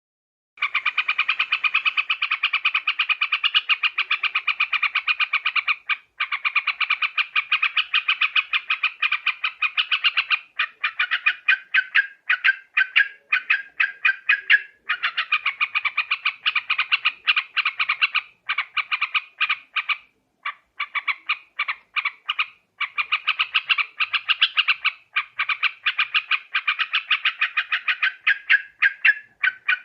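Yellow-vented bulbul (trucuk) calling: long runs of rapid, bubbly chattering notes that break off briefly a few times. This is a loud lure recording made for trapping birds.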